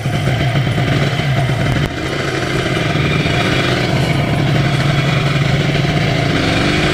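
Yamaha TZR250 1KT two-stroke parallel-twin motorcycle engine running steadily. Its level dips briefly about two seconds in, and a note climbs slowly near the end.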